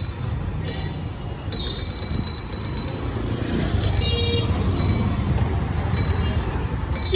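Busy street traffic: a steady low rumble of passing vehicles, with repeated short bursts of high-pitched ringing and a brief horn toot about four seconds in.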